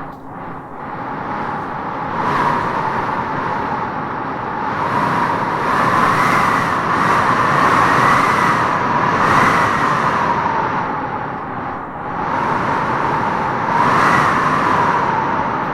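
Howling wind gusting through trees: a steady rushing with a wavering howl that rises and falls in pitch, swelling in gusts about two seconds in, through the middle, and again near the end.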